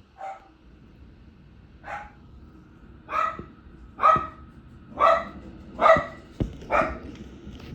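A dog barking seven times: two faint barks, then louder barks about once a second.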